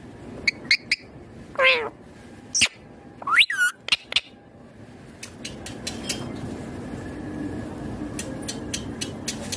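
Indian ringneck parakeet calling: three short chirps, then a long call gliding downward, then a call that rises and falls, with a few clicks after it. In the second half only a steady low background noise with scattered ticks is left.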